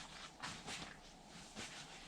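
Footsteps crunching through snow, a few steps a second, each step a short dry crunch.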